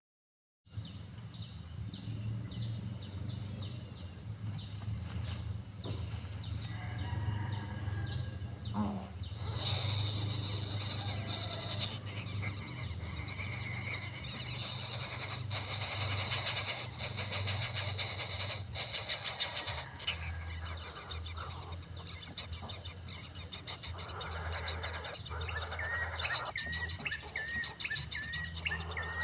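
Outdoor ambience: steady insect buzzing with scattered bird chirps, and a run of short, quickly repeated chirps near the end.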